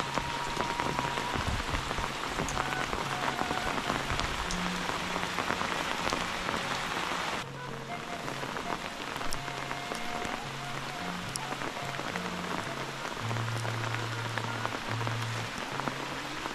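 Heavy rain falling steadily, a dense even hiss that suddenly drops and thins about seven and a half seconds in. Soft, low held notes of background music sound underneath.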